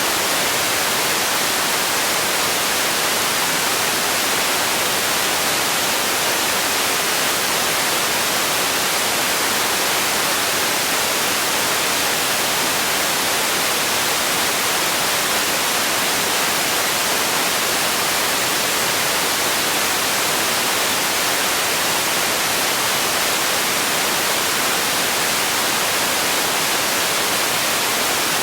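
Steady white noise: an even hiss, brightest in the high end, that never changes.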